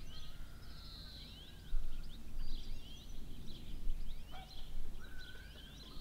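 Small birds chirping, many short quick calls over a low steady background rumble.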